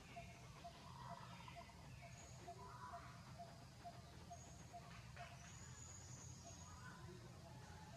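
Near silence: a faint low hum with a soft tick repeating about twice a second, which stops about five seconds in, and a few faint high chirps.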